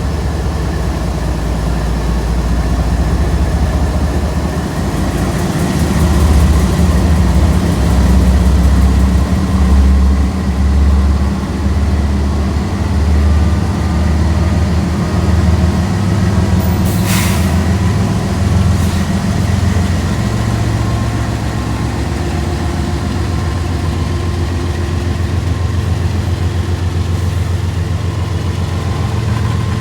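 Diesel freight locomotive engines running with a heavy, steady low throb. A brief sharp sound comes about 17 seconds in, and a fainter one about two seconds later.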